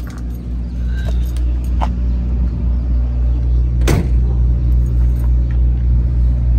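Rebuilt Ford FE 390 V8 with dual four-barrel carburettors idling steadily through a stainless steel exhaust. A car door shuts once, just before four seconds in.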